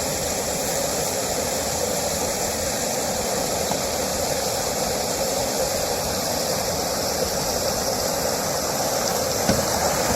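Steady rushing of fast creek water in spring flood, pouring over a swift.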